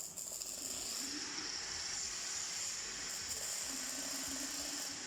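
MIG welding arc giving a steady, even hiss, setting in within the first second.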